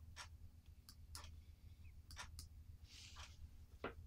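Near silence: a faint steady low hum with a few faint scattered clicks and a soft hiss about three seconds in.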